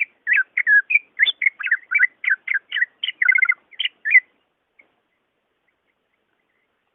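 Cucak ijo (green leafbird) singing a fast, varied run of clear whistled and chirping notes, about four or five a second. The song stops a little over four seconds in.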